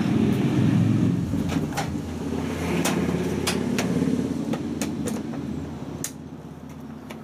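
Hotpoint Ultima WT960 washing machine starting up after a restart: a steady low mechanical hum that eases off near the end, with a scattering of short sharp clicks.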